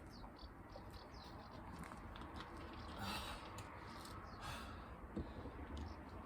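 A person breathing hard during a burpee and chin-up workout, with two loud breaths about three and four and a half seconds in, among faint clicks.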